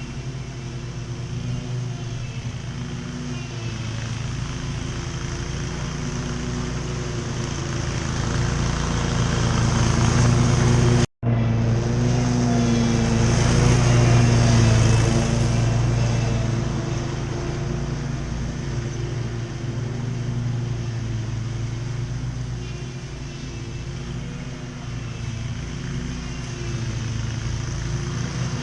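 Riding lawn mower engine running under mowing load, its pitch wavering as the load changes. It grows louder toward the middle, and the sound drops out for an instant about eleven seconds in.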